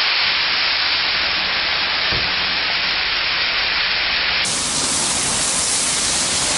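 Loud, steady sizzling of a tomato-and-chilli sambal frying in a hot pan, sending up steam. About four and a half seconds in, it changes abruptly to a sharper, hissier sizzle of climbing perch grilling on a Teflon pan.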